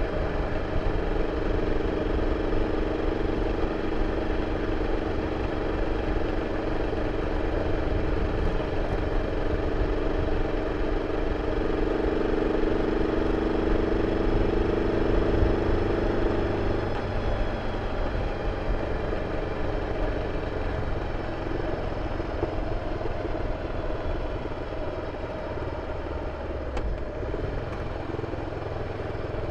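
BMW F 650 CS motorcycle's single-cylinder engine running through its original exhaust, a steady note that eases off a little over halfway through.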